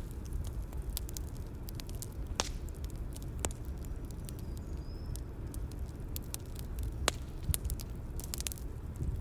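Bonfire ambience: a steady low rumble of burning with scattered sharp crackles and pops, a few louder snaps standing out about two and a half, three and a half, and seven seconds in.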